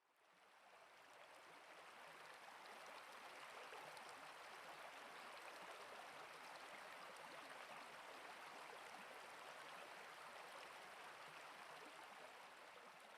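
Faint flowing water, a steady rushing and trickling of a stream, fading in over the first couple of seconds.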